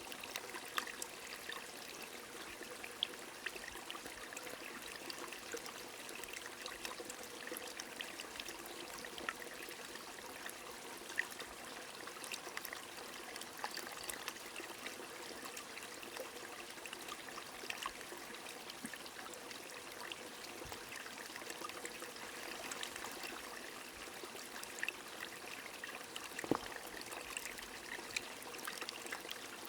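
Small stream flowing steadily with rain falling, many light drops pattering over the constant trickle and a few louder single drops.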